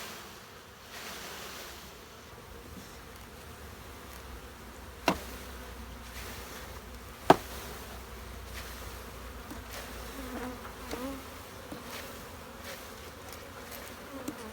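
Massed buzzing of Italian honeybees pouring out of a package into a hive, with two sharp knocks about five and seven seconds in.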